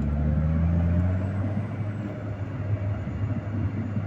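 Low engine drone of a motor vehicle, getting louder in the first second as it pulls away, then settling to a steady run.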